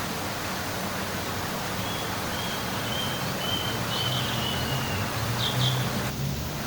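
Outdoor nature ambience: a steady rushing hiss, with a short high call repeating about twice a second and a few quick chirps in the second half.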